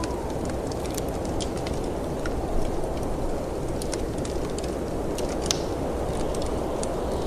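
Snowstorm wind blowing as a steady low rush, with a fireplace's wood fire crackling over it in scattered sharp pops and snaps.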